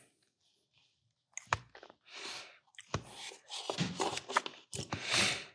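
Close-miked chewing and mouth noises while eating a mini cupcake: quiet for about a second, then sharp wet clicks and short bursts of chewing for the rest.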